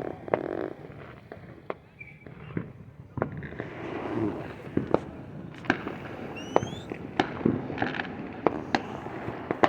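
Fireworks going off: a string of sharp bangs and pops at irregular intervals, with a brief rising whistle about six and a half seconds in.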